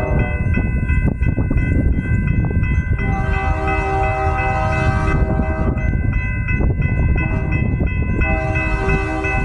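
Diesel locomotive air horn sounding a long chord about three seconds in and again near the end, over the steady low rumble of the passing train.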